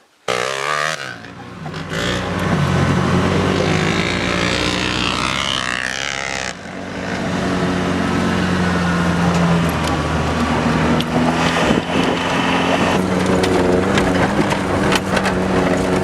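Vehicle engine running steadily while driving, with a rushing noise like wind over the microphone; the sound changes abruptly about six and a half seconds in.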